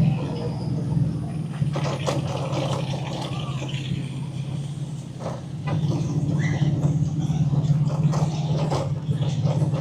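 A car engine idling, a steady low hum that gets louder about six seconds in.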